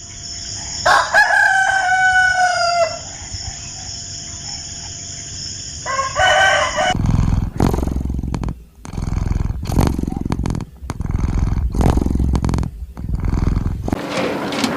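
A rooster crows once, a long call with a slightly falling pitch about a second in, over a steady high whine, and gives a shorter call near six seconds. From about seven seconds the sound is loud, rough, low rumbling noise in uneven bursts.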